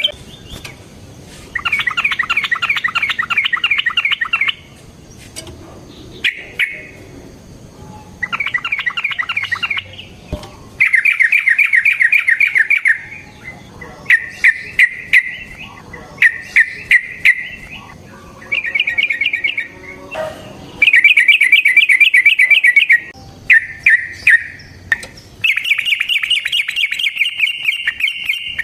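Yellow-vented bulbul (trucukan) singing: a series of loud, fast bubbling, chattering phrases, each lasting a second or two with short pauses between them. Sharp clicks come in between the phrases in the middle of the stretch.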